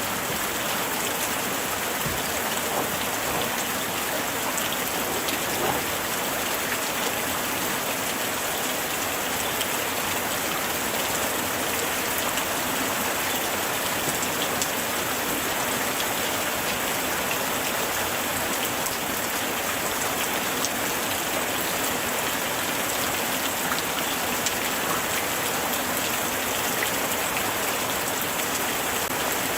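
Steady light rain falling, a constant hiss with many small drop ticks landing on surfaces.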